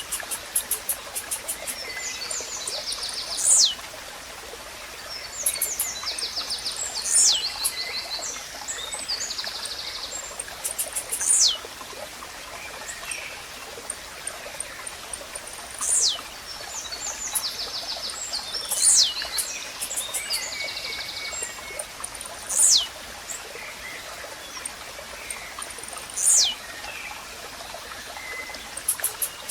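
Blue-black grassquit (tiziu) singing its short, sharp downward-sweeping call, repeated about every three to four seconds. Other small birds chatter and tick between the calls over the steady sound of running water.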